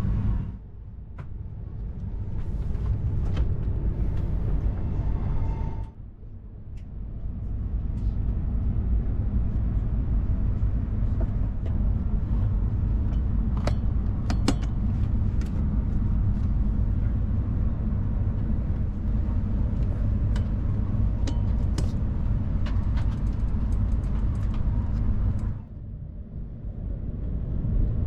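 Steady low rumble of a shinkansen train, with scattered light clicks. It drops away sharply about six seconds in and again near the end, then builds back up.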